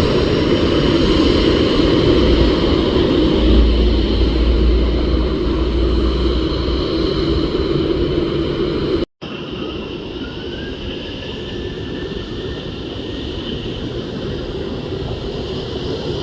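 Boeing 737 jet engines, a loud steady rush with a deep rumble underneath. It cuts off abruptly about nine seconds in and gives way to a quieter steady jet noise with a faint rising whine.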